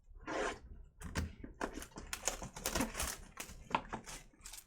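Trading cards and their packaging being handled on a table: quick, irregular clicks, taps and a short rustle about half a second in.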